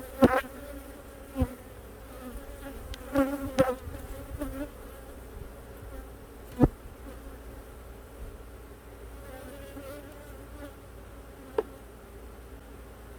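Honey bees buzzing steadily around an opened hive, the pitch wavering as bees fly close by, with several sharp knocks scattered through.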